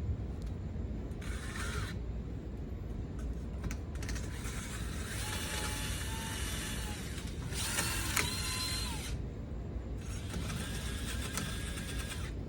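Mechanical tool work on a car's wheel hub: ratcheting and scraping in several stretches over a steady low hum.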